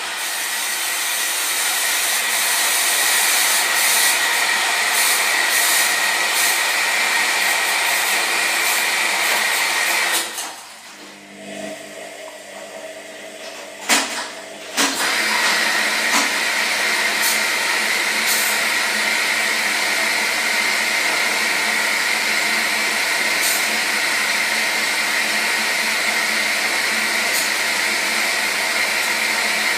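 Washing machine running with a steady whirring hum and a constant high tone. About ten seconds in it drops off for a few seconds, leaving a fainter lower motor whine and a sharp click, then picks back up to full level.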